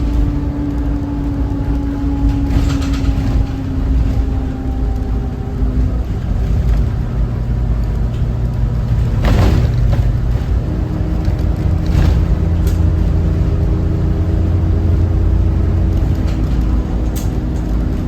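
Cummins ISB 6.7 diesel engine of a 2018 Thomas Saf-T-Liner C2 school bus running under way, a steady rumble. The engine note sinks slowly over the first several seconds, then a stronger engine note comes in about ten seconds in, as the engine pulls harder. A few brief noises sound over the engine.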